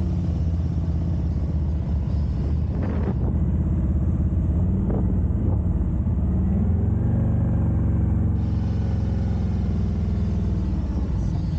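Harley-Davidson Road Glide Special's V-twin engine running at low speed. Its revs rise about six seconds in, then hold steady.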